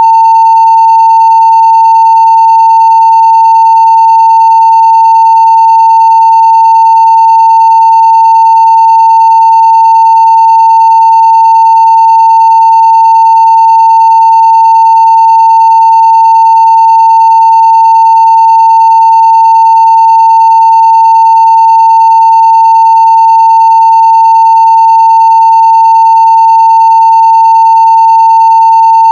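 Continuous 900 Hz sine-wave audio test tone at full level (0 dB), one steady unbroken pitch.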